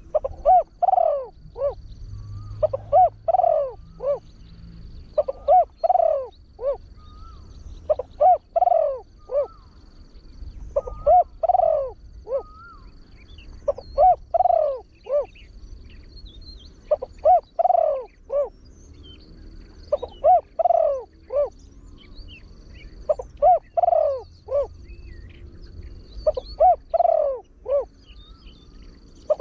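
Spotted dove (nok khao yai), a trained bird with a deep voice, cooing its rapid-repeat song: a phrase of several coo notes repeated about every three seconds, around ten times.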